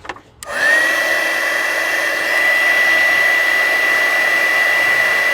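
Electric heat gun switched on, its fan spinning up within a second to a steady whine and blowing, as it heats solder-and-heat-shrink connections on repaired wiring.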